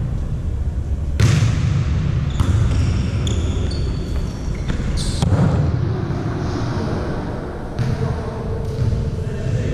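A volleyball being struck and hitting the floor in a gymnasium: about five sharp slaps a second or more apart, with a run of short high squeaks, typical of sneakers on the court, in the first half, over a steady low hall rumble.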